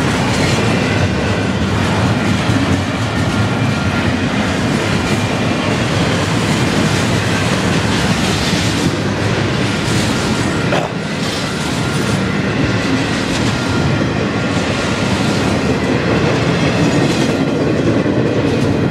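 Double-stack container freight cars rolling past close by: steady, loud rumble of steel wheels on rail with a clickety-clack over the rail joints.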